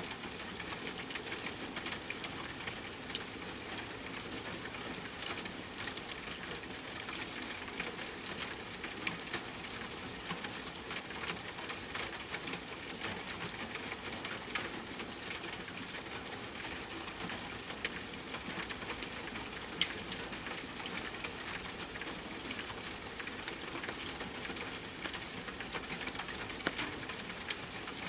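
Steady rain with a crackling fireplace fire: an even hiss dotted with scattered sharp pops, one louder pop about twenty seconds in.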